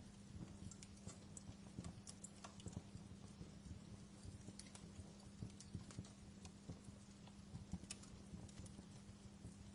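Wood fire crackling in a fireplace, faint and irregular small pops and snaps, over a low steady hum.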